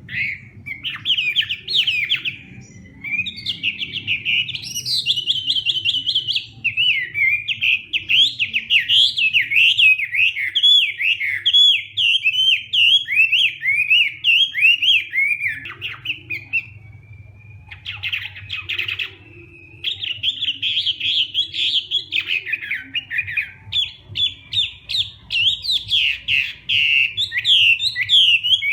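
Chinese hwamei singing a loud, almost unbroken song of rapid, varied whistled phrases, with a short break a little past halfway.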